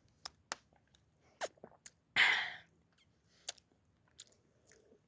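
A person's mouth sounds while eating: scattered sharp clicks and smacks, with one short breathy burst about two seconds in.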